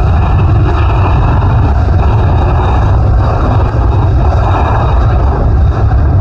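Jet airliner's engines at take-off power during departure: a loud, steady rumble with a deep low end.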